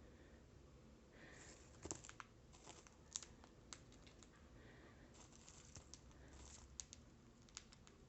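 Faint, irregular small clicks and crinkling rustles against near silence, with a few sharper clicks standing out.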